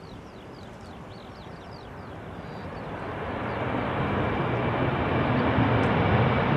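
Aircraft engines growing steadily louder from about two seconds in as an arriving plane approaches runway 30 to land. Birds chirp briefly early on, above the engine noise.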